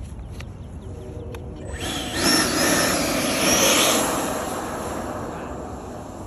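The 70mm electric ducted fan of an FMS Yak 130 RC jet spooling up for a takeoff attempt: rushing air with a rising whine that starts about two seconds in, peaks, then slowly winds down.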